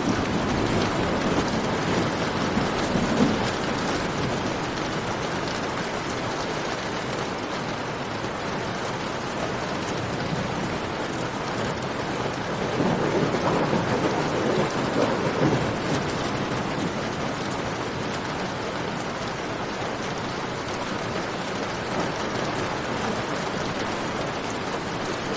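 Steady rain falling, mixed with a campfire's faint crackle. A low rumble swells up twice, once near the start and again about halfway through.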